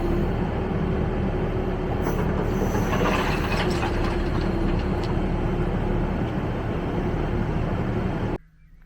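Backhoe loader's diesel engine running under load while the hydraulic Gyro Star roller screening bucket spins, with rubble knocking and rattling in the bucket. The sound cuts off suddenly near the end.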